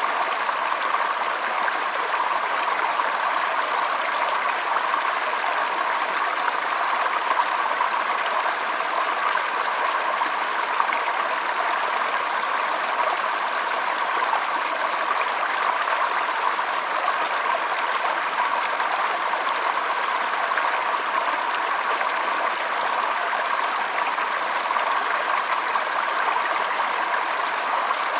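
Shallow stream flowing and trickling: a steady, even rush of running water.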